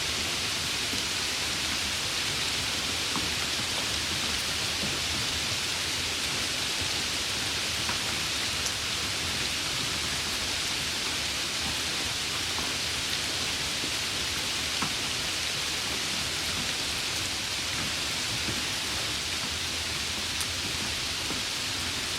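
Steady summer rain: an even hiss of falling rain, with a few faint single drop ticks now and then.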